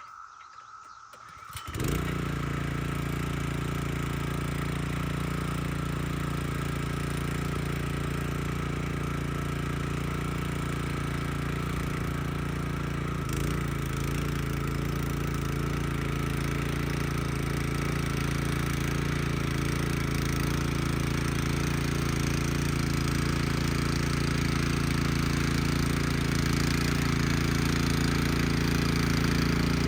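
Small gasoline engine of garden tilling equipment starting about two seconds in, then running steadily under load, with a brief change in note partway through and a slight rise in level near the end.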